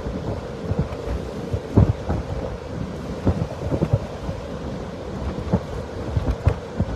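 Storm wind buffeting the microphone: an uneven low rumble broken by frequent sudden thumps as gusts hit. A faint steady hum sits underneath.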